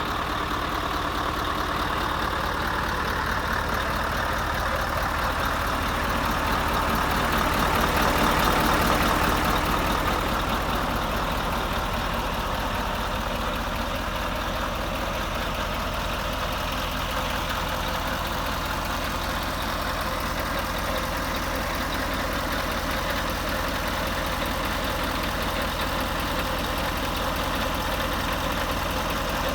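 Scania R520's 16-litre V8 diesel engine idling steadily, with a brief gentle swell in loudness about eight seconds in.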